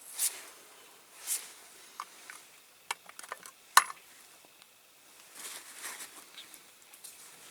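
Scattered light clicks and taps with a few soft rustles, the sharpest click about four seconds in: small metal model parts and tools being handled on a workbench.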